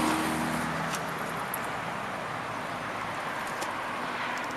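Steady outdoor background noise, an even hiss with a low engine hum from passing traffic that fades out in the first second and a half.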